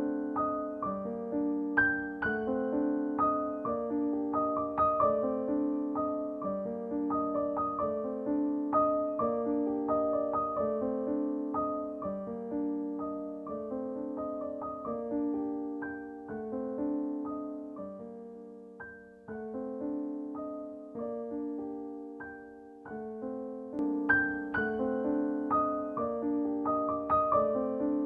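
Background music: gentle solo piano playing a repeating pattern of notes, dipping softer in the middle.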